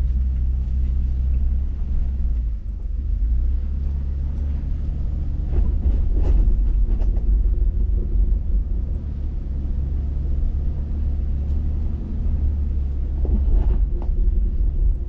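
Vehicle engine and road rumble heard from inside the cab while driving slowly over a rough dirt road, with a few short knocks and rattles from the bumps.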